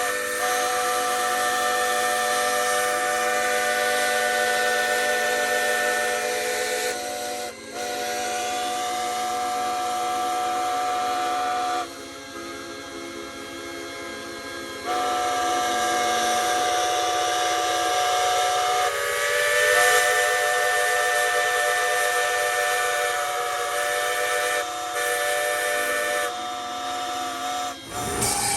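Steam whistle blowing long held blasts, several steady tones sounding together over a hiss of steam. It breaks briefly about seven seconds in, goes softer for a few seconds around the middle, then sounds loud again until it stops just before the end.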